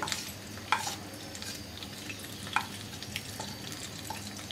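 Onion paste and spice pastes frying in hot oil in a wok, a steady sizzle. A few light clicks of a spatula scraping the spices off a plate.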